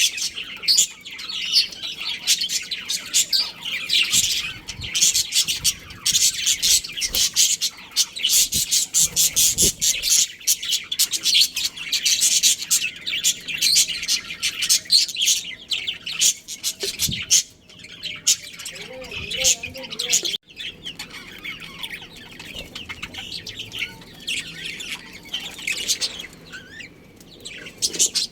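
Budgerigars chirping: a dense, rapid stream of high chirps from several birds, busiest for the first two-thirds and thinning out near the end.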